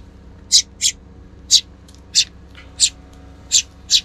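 Tree sparrows chirping: a run of short, sharp high chirps, about seven in four seconds at an uneven pace.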